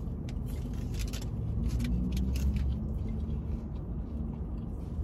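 Someone chewing food close to the microphone, a string of small crunchy clicks, over the steady low rumble of a car with its engine running, heard from inside the cabin.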